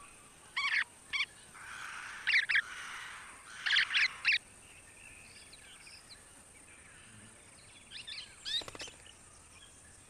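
Golden-shouldered parrots calling: short, sharp whistled notes in quick groups several times in the first half, then again near the end, over a steady faint high-pitched hiss.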